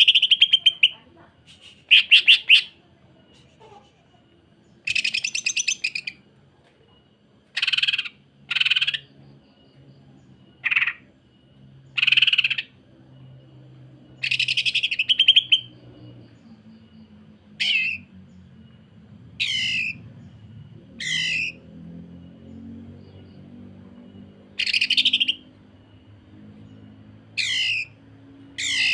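Green leafbird (cucak ijo) singing in short, loud separate phrases about every two seconds: harsh, very rapid rattling trills of the kind keepers call 'sewing machine' (mesin jahit), and in the second half quicker sweeping, sliding notes.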